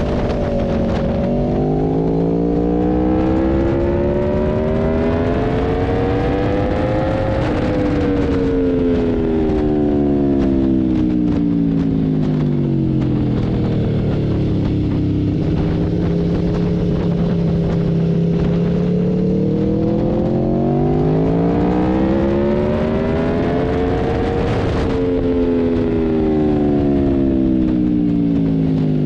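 Sportbike engine on a race track: the pitch climbs steadily under acceleration for about six seconds, drops away as the rider slows, holds low for a few seconds, then climbs and falls again near the end. A constant rush of wind noise runs underneath.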